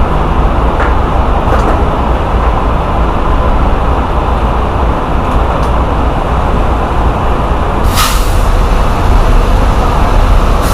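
Steady low rumble of a diesel semi-truck at a fuel island, with one short sharp air hiss about eight seconds in.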